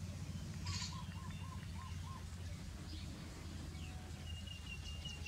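Birds calling over a steady low hum: a run of five short repeated notes, then a quicker string of higher, thinner notes near the end.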